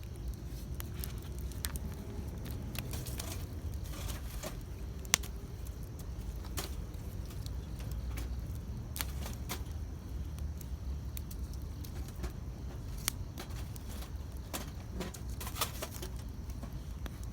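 Wood campfire crackling, with irregular snaps and pops of burning wood and one sharp pop about five seconds in, over a low steady rumble.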